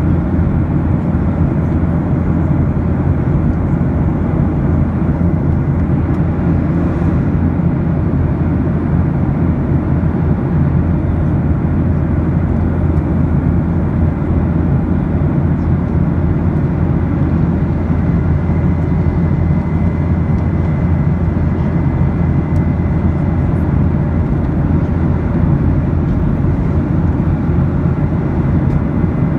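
Steady cabin noise of an airliner in flight: engine and airflow drone, heaviest in the low end, unchanging throughout.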